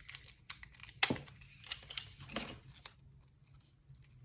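Cardstock paper strips rustling and crinkling as they are handled and pressed together, with a sharper tap about a second in and quieter handling toward the end.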